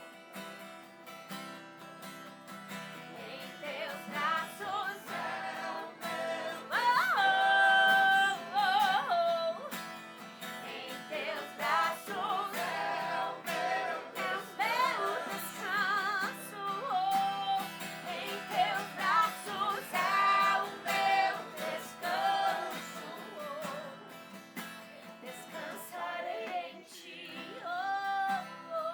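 A woman singing a worship song to a strummed acoustic guitar, with long held notes.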